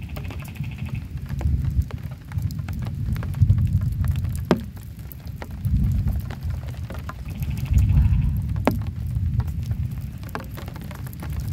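Heavy rain falling on a camping shelter: a dense patter of drops ticking sharply over a low rumble that swells and fades every couple of seconds.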